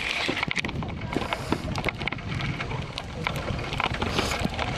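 Wind buffeting the microphone, with a low rumble and irregular crunching clicks from a bicycle being ridden with difficulty through snow.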